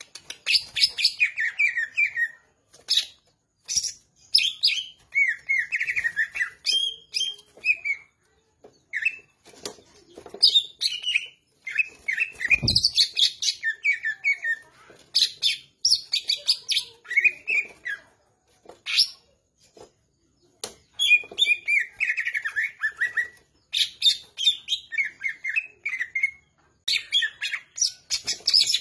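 Cucak ijo (greater green leafbird) singing, full and continuous: quick runs of chirps and warbled trills in short phrases, separated by brief pauses.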